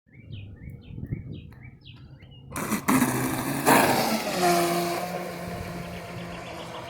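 A few bird chirps, then about two and a half seconds in an RC boat's motor comes on loud under throttle, its pitch falling and the sound slowly fading.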